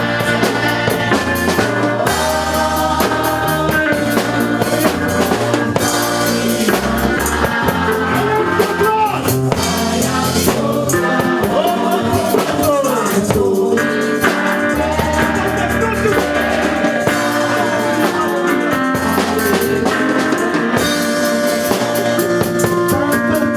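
Live worship music from a band with a drum kit and a stepping bass line, with voices singing a melody over it.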